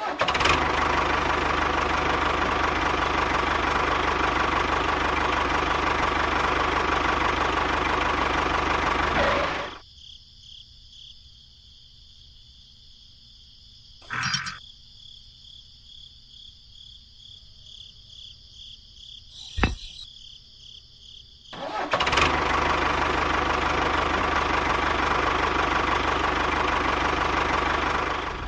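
A small motor runs steadily for about ten seconds, then cuts out, leaving a faint hum broken by one brief loud burst and a sharp click. It starts again about twenty-two seconds in and runs steadily until near the end.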